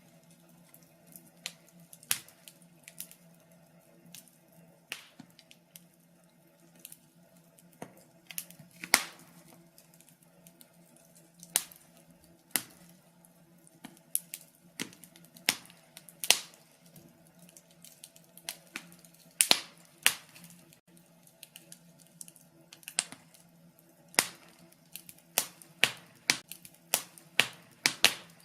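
Wood fire in a fireplace crackling, with irregular sharp pops and snaps, a few of them loud, over a faint steady low hum.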